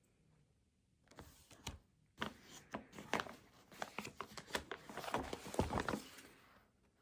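Rustles and sharp clicks of things being handled on a study desk, a busy run starting about a second in and lasting about five seconds.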